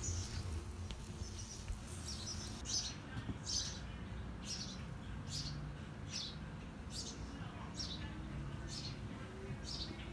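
A small bird chirping over and over: short high chirps, about one a second, starting a few seconds in, over a low steady background hum.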